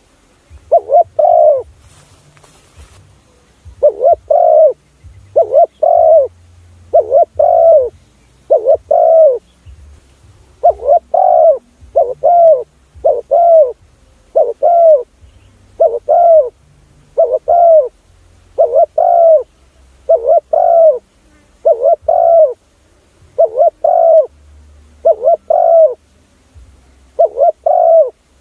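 Spotted dove cooing: loud, arched coos repeated at a steady pace, in runs of two or three notes, a lure call for decoying spotted doves.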